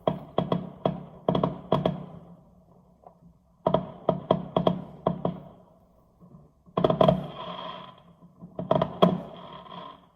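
Fireworks going off: rapid volleys of sharp bangs that come in four bursts, each of several reports with a short echo.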